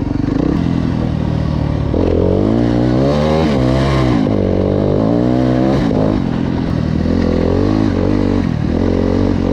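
Enduro motorcycle engine under way, running steadily at first, then revving up and down repeatedly with the throttle as the bike is ridden.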